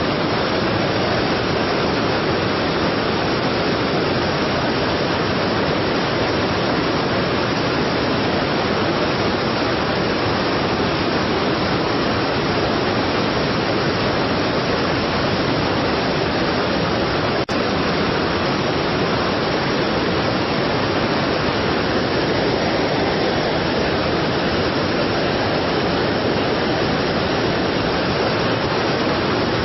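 Strong waterfall: a steady, loud rush of falling water, with a momentary dropout about halfway through.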